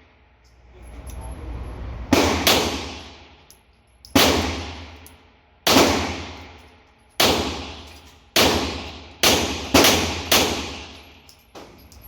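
Nine gunshots in an indoor range, each with a long echoing decay, spaced irregularly and coming faster near the end.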